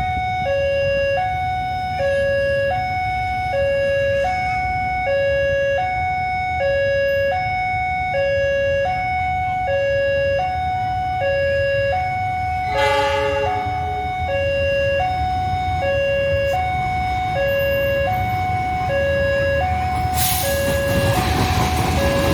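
Electronic two-tone warning alarm of a railway level crossing, switching between a high and a low note about every half second at a steady pitch. A short horn sounds about two-thirds of the way through, and a rising rush of noise comes in near the end.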